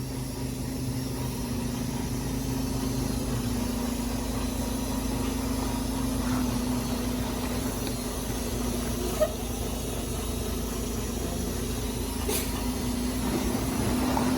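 Semi-truck's diesel engine running steadily, a low, even hum. The note changes slightly about three and a half seconds in, and there is a single short click about nine seconds in.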